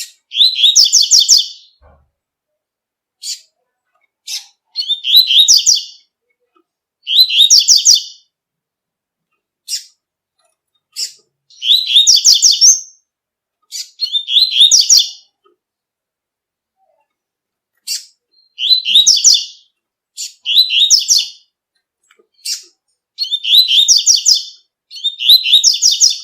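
Double-collared seedeater (coleiro) singing the 'tui-tui' song: phrases of quick, high notes, each about a second long, repeated every second or two, with single short call notes in the gaps.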